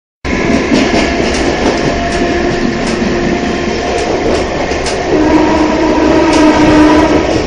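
Mumbai suburban electric local train running at speed, heard from its open doorway: loud steady rumble and rushing noise with scattered rail-joint clicks and a few steady whining tones. It cuts in abruptly just after the start.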